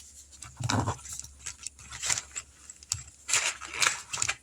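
Paper cash and envelopes being handled and rustled, in several short bursts, with a soft thump just under a second in.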